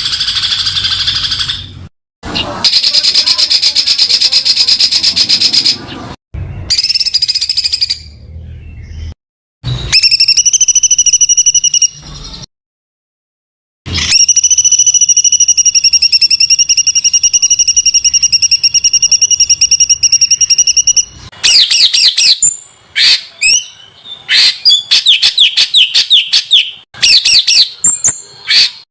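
Captive songbird singing dense, rough 'tembakan' bursts of the kind used as masteran training song. Long rapid trills are held at an even pitch and cut off suddenly where recordings are spliced together. The last several seconds bring fast runs of quick rising and falling whistled notes.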